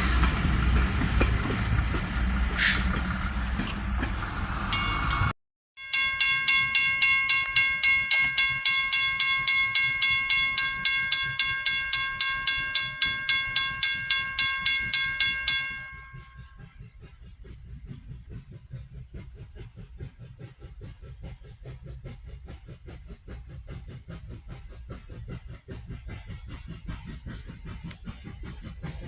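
A train passing close by with loud rushing noise, cut off suddenly. After the cut comes a ringing sound repeated a few times a second for about ten seconds, which stops, leaving fainter rapid clicking under a steady high tone.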